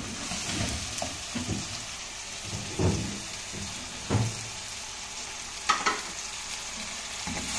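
Chicken and spices sizzling as they fry in a pot, stirred with a wooden spoon, with a few dull knocks. Chopped tomatoes are tipped into the hot pot about four seconds in.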